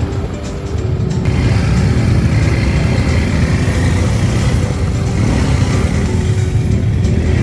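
A motor vehicle's engine running steadily under a dense low rumble, which grows fuller about a second in.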